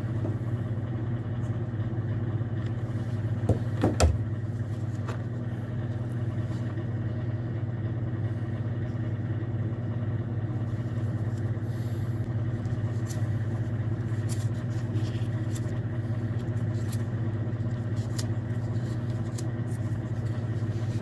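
A steady low mechanical hum with even overtones, like a motor or engine running at idle, with a few faint clicks and one sharper click about four seconds in.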